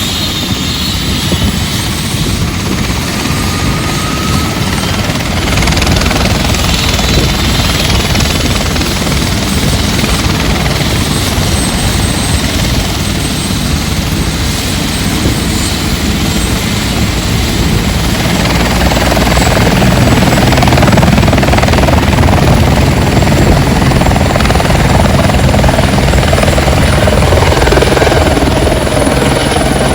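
Helicopter running with its rotor and engine making a loud, steady noise that grows louder about six seconds in and again past the middle.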